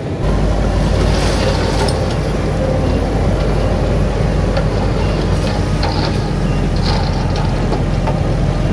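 Heavy diesel earthmoving machinery running steadily under load, with scattered scrapes and clatters of stone.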